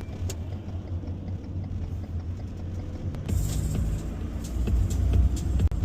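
Ford Transit recovery truck driving, a steady low road-and-engine rumble heard from inside the cab. About three seconds in, music with a regular ticking beat comes in over it.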